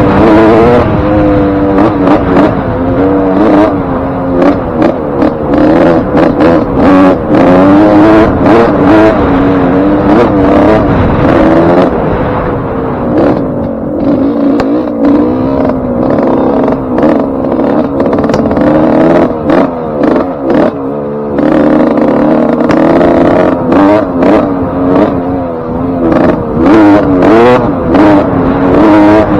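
Suzuki RM125 two-stroke single-cylinder engine being ridden hard, its revs rising and falling repeatedly with the throttle. The engine has a freshly rebuilt top end with a new piston ring and wrist pin.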